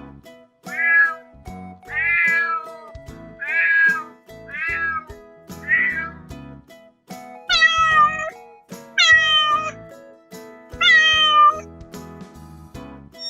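Kitten meowing eight times in a row: five shorter calls in the first six seconds, then three longer, higher meows that fall in pitch at the end. Background music plays underneath.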